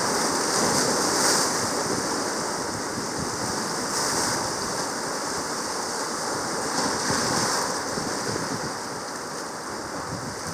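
Sea waves washing in a steady wash of water noise. A brighter hissing surge swells about every three seconds.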